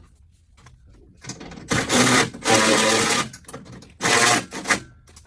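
Handheld power tool run in three short bursts of about half a second to a second each, the last two close together.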